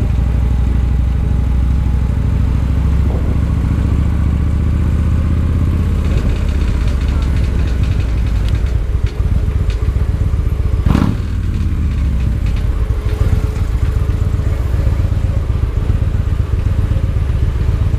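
Victory Highball's V-twin engine running steadily while riding. About eleven seconds in there is one brief sharp sound.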